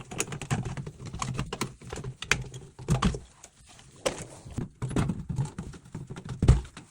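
Irregular plastic clicks and knocks of a concealed toilet cistern's internal fittings, the fill valve and flush mechanism, being handled and worked loose, with a few louder knocks about three seconds in and near the end.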